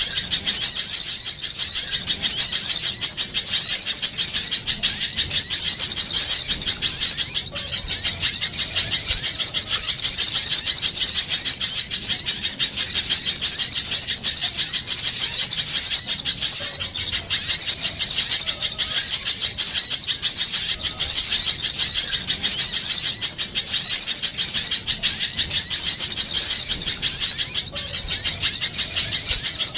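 Dense, noisy chorus of many small birds chirping rapidly and without pause, high-pitched and steady throughout. It is a bird-trapping lure recording of an agitated small-bird crowd, meant to draw in small birds.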